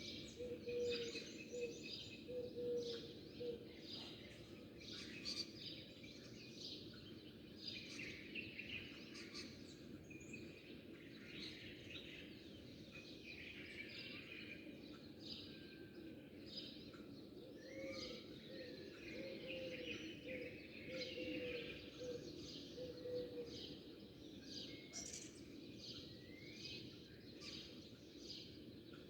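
Many small songbirds chirping and twittering over each other, with a run of lower repeated notes at the start and again in the middle, over a steady background hum.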